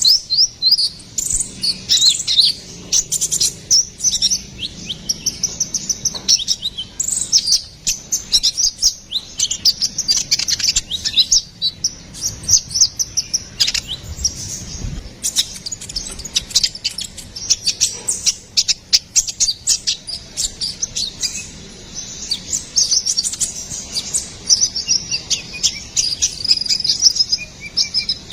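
Olive-backed sunbird (kolibri ninja, konin) singing fast and continuously: a dense stream of high, sharp chirps and twittering trills with no pauses.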